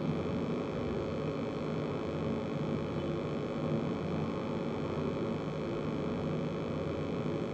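Steady electrical hum with a faint hiss, even throughout, with no breathing strokes heard.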